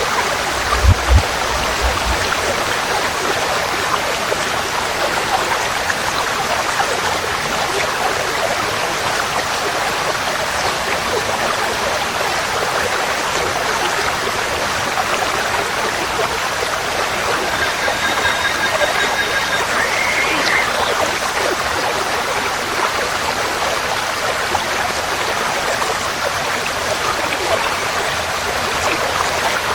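Forest stream flowing steadily, a constant rushing of water. A couple of short low thumps come about a second in, and a faint high tone sounds a little past the middle.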